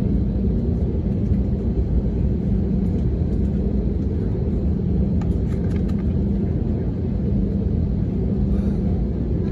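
Steady low rumble and hum of an airliner's engines heard inside the passenger cabin, at low power before the takeoff roll.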